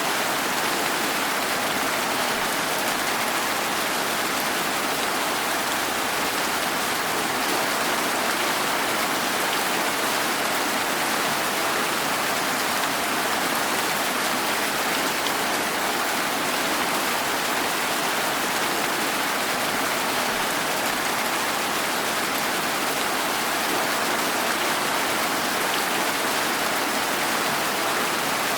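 Steady rain falling and pattering on surfaces, an even hiss with no distinct drops or thunder standing out.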